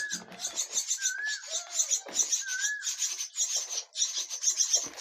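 Common myna nestlings giving rapid, harsh rasping begging calls, a steady chatter of many short pulses. Three short rising-then-falling whistled notes come in about a second apart during the first three seconds.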